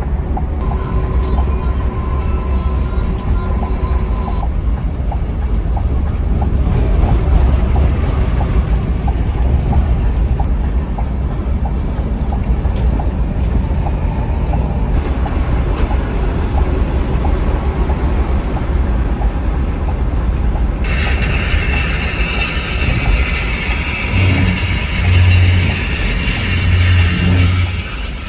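Heavy vehicle road noise from a coach on the move: a steady low rumble of engine and tyres that changes character abruptly several times, with a few louder low pulses near the end.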